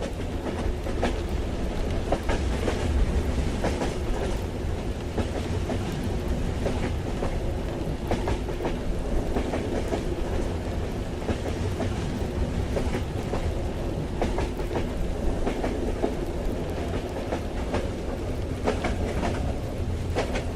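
Moving train heard from inside a carriage: a steady low rumble with irregular clicks of the wheels running over the rail joints.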